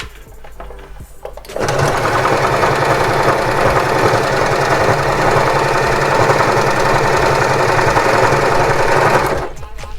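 Privilege electric sewing machine stitching a test seam. It starts about a second and a half in, runs at a steady speed for about eight seconds, and stops shortly before the end.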